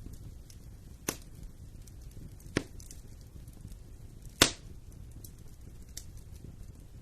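Wood fire burning in a fireplace with a low steady rumble and faint small crackles, and three sharp pops from the burning logs, about a second, two and a half seconds and four and a half seconds in, the last the loudest.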